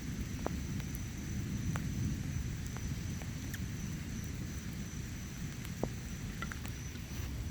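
Thunderstorm outdoors: a low, steady rumble of distant thunder and rain, with scattered faint drip-like ticks.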